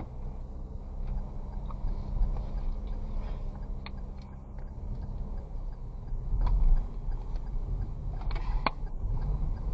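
Vehicle engine running on the move with a low wind rumble, and a few sharp clicks and knocks scattered throughout.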